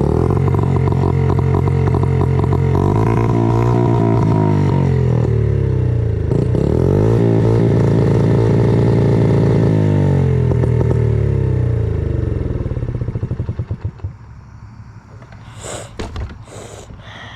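Honda CRF50 dirt bike's small single-cylinder engine running with the choke off, its pitch sagging and picking back up. It then sputters and dies about thirteen seconds in. The rider says something is wrong with the motor.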